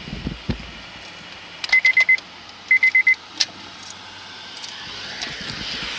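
Two quick runs of about five short, high electronic beeps each, about a second apart, with a few sharp clicks around them.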